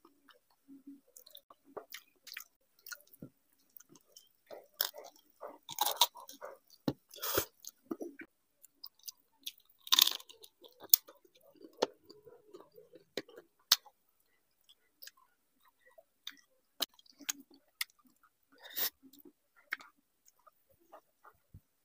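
Close-up chewing and biting of a man eating rice and curry by hand: irregular wet mouth clicks and smacks, with a few louder bites.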